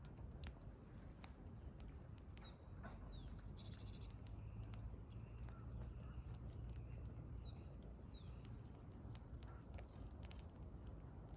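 Faint crackling of a wood campfire, with scattered sharp pops, while small wild birds give a few short chirps and one brief rapid trill. A low steady rumble lies underneath.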